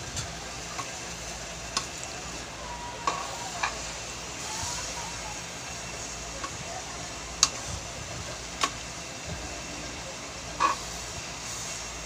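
Sinantulan sizzling in the pan, the coconut milk cooked down until its oil separates and the dish fries in it. A spoon stirs and now and then clicks sharply against the pan, about nine times at uneven intervals.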